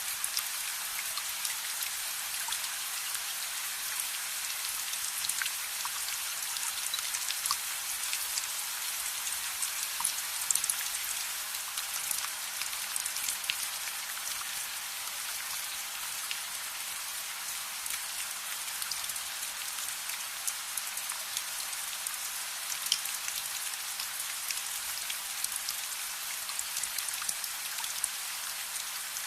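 Steady rain falling, a dense even hiss with many small ticks of drops scattered throughout.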